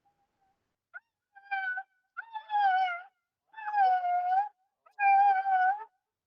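Newborn German Shepherd puppy crying: a short yelp, then a run of about four high, mewing cries, each under a second long.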